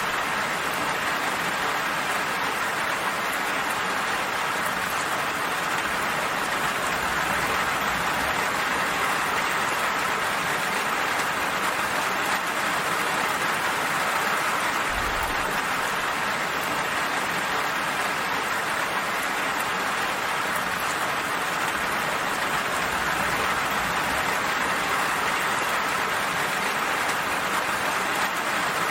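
Steady rain falling, an even continuous hiss of rainfall with no distinct drops standing out.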